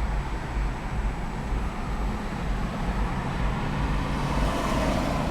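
The 2014 Audi A5's 2.0-litre turbocharged four-cylinder engine idling steadily with a low rumble, heard from inside the cabin.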